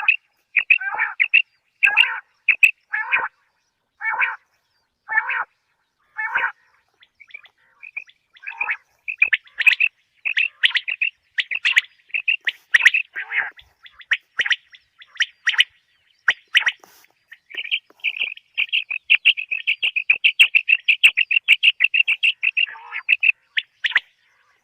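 Common quail calling over and over in short, high notes grouped in twos and threes, breaking into a fast, unbroken run of notes about two-thirds of the way through.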